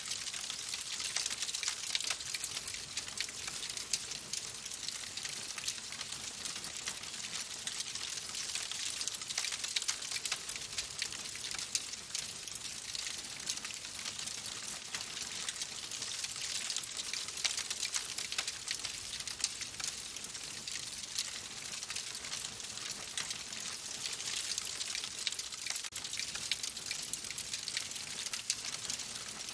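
Wood fire in a fireplace crackling steadily: a dense run of small pops and snaps over a soft hiss.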